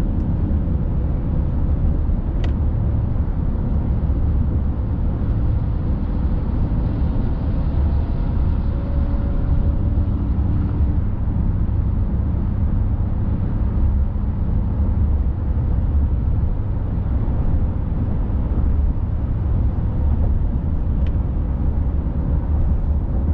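Steady in-cab sound of a 2020 Chevy Silverado's 5.3 L V8 through a Corsa Sport cat-back exhaust, cruising at a constant highway speed. A low, even exhaust hum sits under road and tyre noise.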